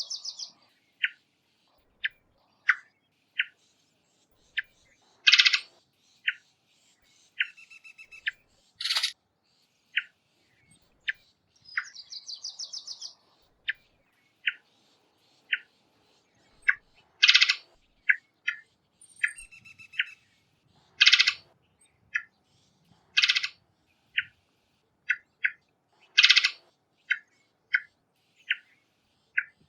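Varied thrush calls: a series of short chip notes every second or so, mixed with several louder harsh calls and a few quick rapid trills.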